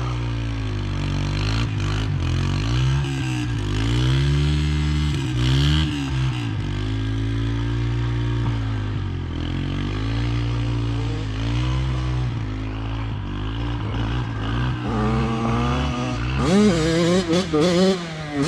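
Dirt bike engine running and revving up and down again and again, with quicker, busier rises and falls near the end.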